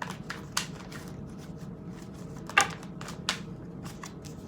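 Tarot cards being shuffled and handled: a run of irregular soft card snaps and swishes, the loudest about two and a half seconds in.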